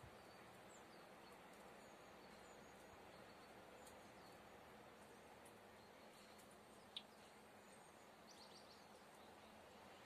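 Near silence: a faint steady outdoor hiss with a few faint chirps from small songbirds, a sharp one about seven seconds in and a quick run of high chirps shortly after.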